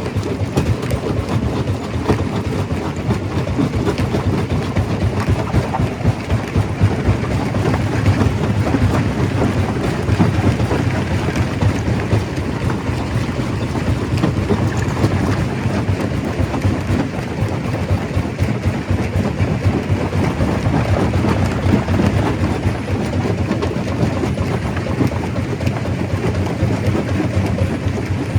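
Stone crusher running under load, crushing rock: a steady heavy rumble with constant rattling and cracking of stone.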